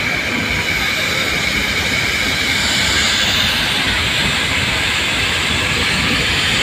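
Steady running noise of the Nilgiri Mountain Railway passenger train heard from an open carriage window, with a faint high whine running over it.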